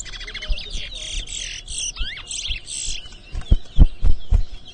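Caged towa-towa (chestnut-bellied seed finch) singing a fast run of high chirps and trills, competition song that is counted one song at a time. Near the end come a few loud, dull thumps.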